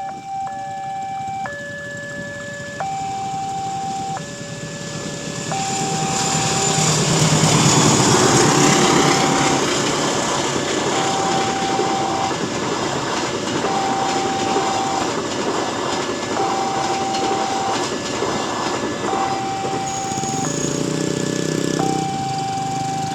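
Railway level-crossing warning alarm sounding a two-tone electronic signal, the tones alternating about every second and a half, while a train passes through the crossing: its running noise swells a few seconds in, is loudest soon after, and stays under the alarm until near the end.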